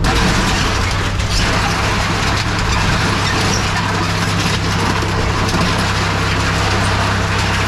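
Heavy equipment engine running steadily, a low hum under a constant wash of mechanical noise.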